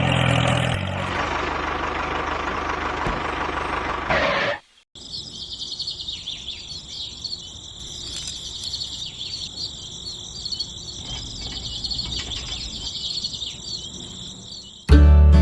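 A mini tractor's small motor running with a steady hum for a few seconds, then cutting out. After a brief silence comes a dense, high-pitched chorus of insects chirping, with some bird chirps.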